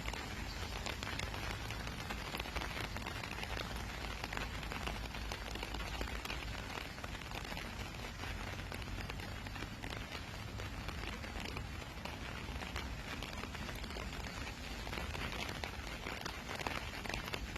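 Steady autumn rain falling, an even hiss dense with the small taps of individual raindrops.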